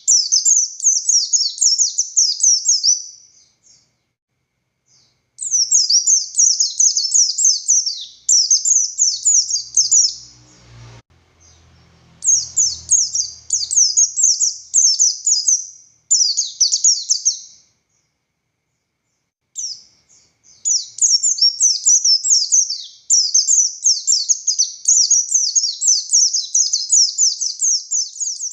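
Buxtoni white-eye singing a fast, high-pitched chattering song of rapid descending notes, delivered in long runs of several seconds with short pauses between them. A faint low rumble is heard briefly in the middle.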